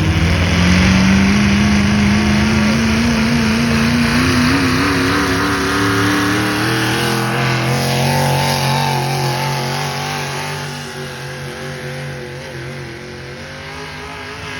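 A pull vehicle's engine running hard under load, its wavering note climbing in pitch over the first several seconds. It then drops away and grows quieter toward the end.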